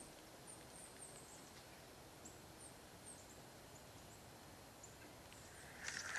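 Near-quiet outdoor ambience with a small bird chirping faintly: short, high, downward-sliding notes repeated many times. About a second before the end, a louder scratchy rustling with clicks starts.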